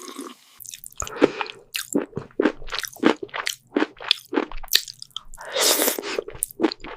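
Wet, crunchy chewing and biting: a quick run of short bites, about three a second, with one longer crunch about five and a half seconds in.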